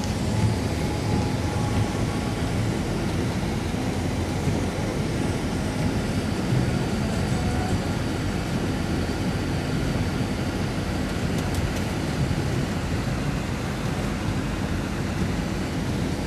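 Steady low rumble of a running vehicle, even in level throughout.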